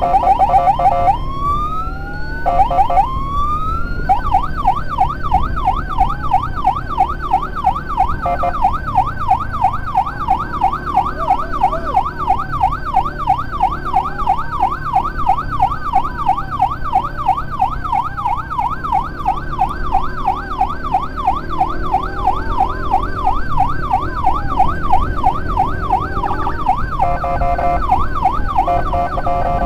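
Electronic emergency sirens: a steady multi-tone pattern opens, then two rising wails about a second in. From about four seconds a fast yelp swings up and down about three times a second, with a slower rising wail repeating over it. Near the end it switches back to the steady multi-tone pattern. A vehicle engine runs low underneath.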